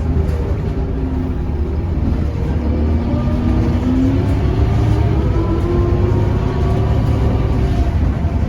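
Scania K230UB bus driving under power: a steady low engine rumble with whining tones from its ZF automatic gearbox that rise in pitch as it accelerates, about three seconds in and again from around five seconds.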